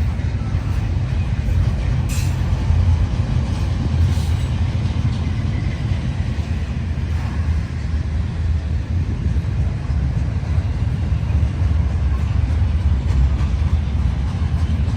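Freight train rolling past: a steady low rumble of the cars on the rails.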